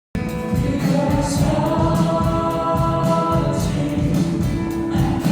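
Church praise team rehearsing a worship song: voices singing together over instrumental backing with a steady beat.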